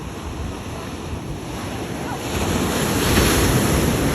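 Ocean surf with wind buffeting the microphone: a steady wash of waves that swells as a wave rushes in about halfway through.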